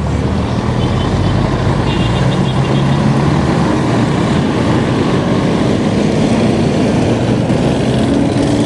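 A motor vehicle's engine running close by, a steady low hum over constant road and wind noise.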